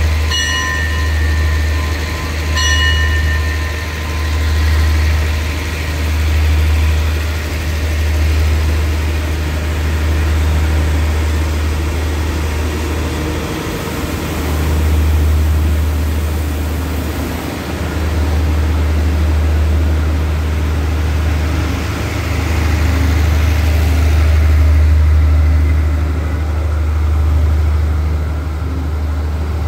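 Passenger train pulling out of a station, its coaches rolling past with a steady low rumble that swells and eases every couple of seconds. A high steady tone sounds for the first few seconds.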